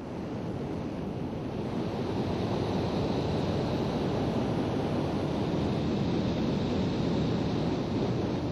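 Steady engine and rushing-air noise of an aircraft, heard from on board, fading up over the first second and then holding even, with a faint high whine running through it.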